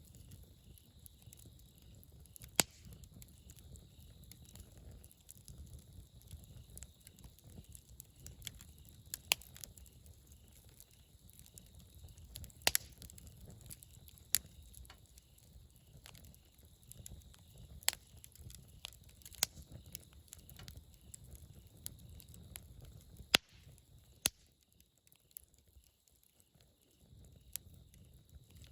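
Wood campfire burning, with sharp crackling pops every few seconds over a low, steady rush of flame. The low rush drops away for a few seconds near the end.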